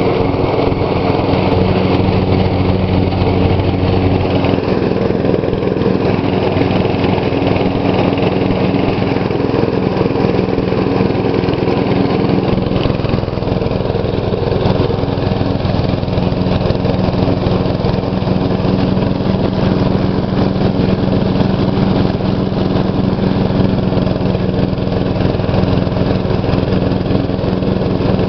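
2012 MTD lawn tractor's engine running steadily under load with the mower blades engaged, cutting grass.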